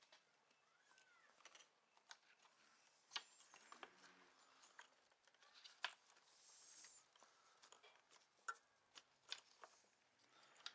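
Faint scattered clicks and taps of small parts and hand tools being handled, with a brief low pitched whine about four seconds in.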